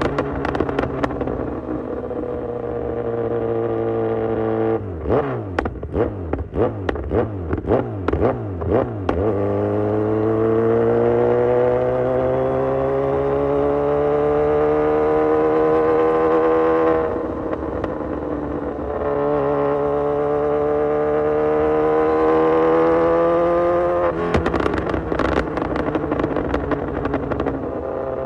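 Kawasaki Z900's 948 cc inline-four through an Austin Racing full exhaust system, under way: steady running, then a few seconds of quick rev blips with crackling and popping off the throttle, then a long pull rising in pitch, a sudden drop at a gear change about two-thirds through, another rising pull, and more crackling as the revs swing near the end.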